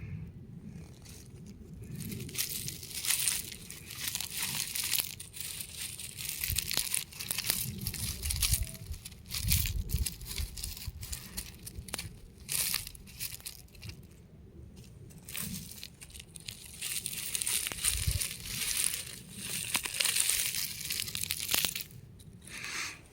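Brittle rock crumbling and being crushed: a dense, gritty crunching crackle that comes in irregular bursts, with a few short pauses.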